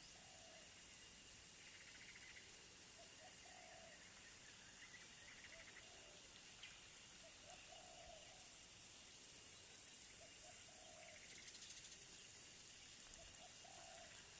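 Faint bird calls: a short, low note repeated every couple of seconds, over a steady faint hiss.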